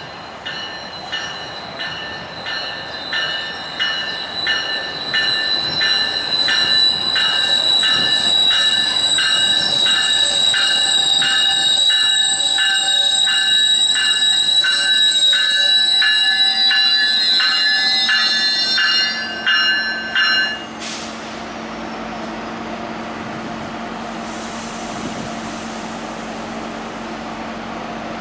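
Tri-Rail commuter train pulling in and braking: loud, steady high-pitched wheel and brake squeal with regular clanks about one and a half times a second. The squeal rises in pitch and then cuts off suddenly about twenty seconds in, as the train comes to a stop. After that comes a steady low hum from the standing train.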